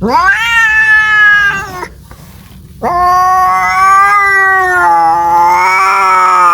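Domestic cat caterwauling: two long, drawn-out yowls. The first sweeps up in pitch and holds for nearly two seconds. The second starts about three seconds in and wavers up and down, typical of a cat calling for a mate.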